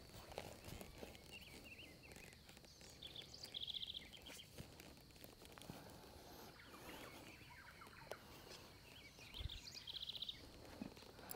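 Faint outdoor quiet with a bird calling twice: each call is a few short rising chirps ending in a fast, high trill.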